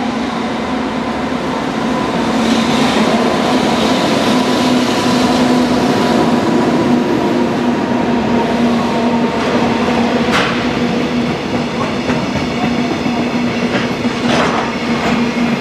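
A freight train hauled by an EH500 electric locomotive passes at speed, followed by a long string of container wagons: a steady rumble and clickety-clack of wheels on rail with a steady hum underneath. Two brief sharp clanks come about ten and fourteen seconds in.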